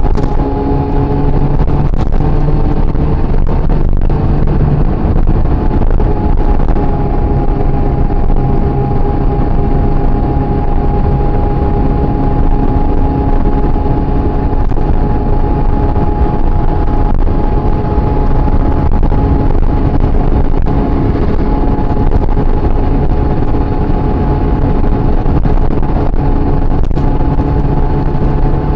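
Honda CB400SF inline-four engine running at a steady cruise, its note holding nearly constant pitch with small shifts, under heavy wind rush.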